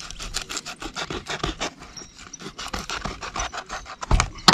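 Rapid, irregular scraping and rubbing of roofing membrane being handled and pressed down while sealing around a chimney, with a louder knock near the end.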